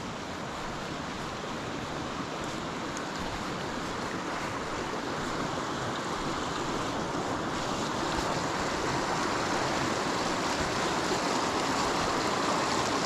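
Rushing water of a rain-swollen burn, a steady rush that grows gradually louder.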